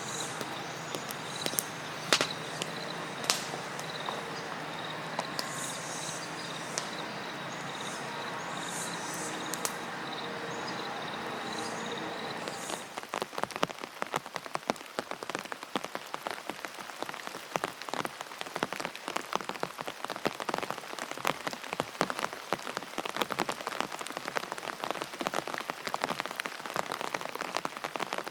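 Rain falling, an even hiss at first, then from about halfway through a dense, irregular patter of drops striking a surface.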